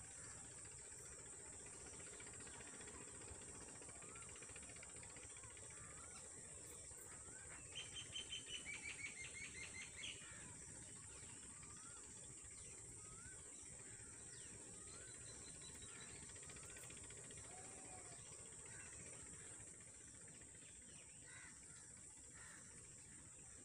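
Faint steady hiss with birds calling: a quick run of about ten sharp repeated call notes lasting about two seconds, roughly a third of the way in, and scattered soft short chirps.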